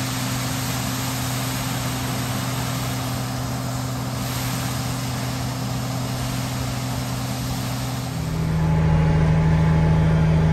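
Diesel farm vehicle engine running steadily at low speed, then throttled up about eight seconds in, settling at a higher, louder pitch.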